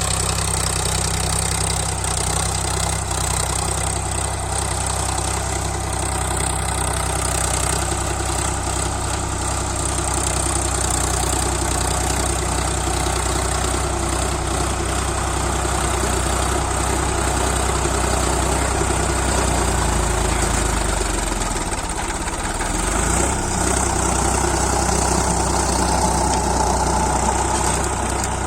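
Sonalika Sikander tractor's diesel engine running steadily, its note wavering and dipping briefly about three quarters of the way through.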